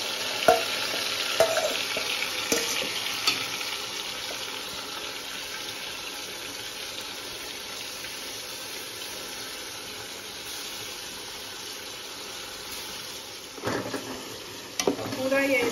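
Marinated chicken sizzling in hot oil and half-browned onions in a steel pot, the hiss slowly easing off. A slotted steel spoon clicks against the pot a few times in the first few seconds, and stirring clatters again near the end.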